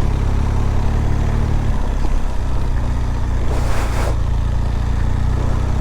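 BMW R1200GS boxer-twin engine running steadily at low road speed, with a short hiss about three and a half seconds in.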